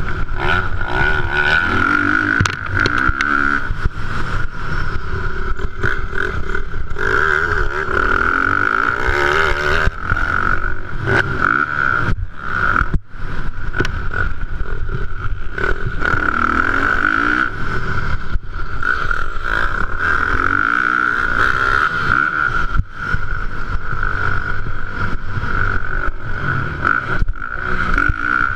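450-class motocross bike engines racing, revving up and falling back again and again through gear changes, under a steady high-pitched whine.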